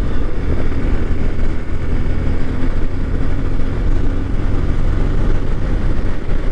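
Yamaha Fazer motorcycle's single-cylinder engine running steadily at cruising speed on the road, with a constant rush of wind and road noise.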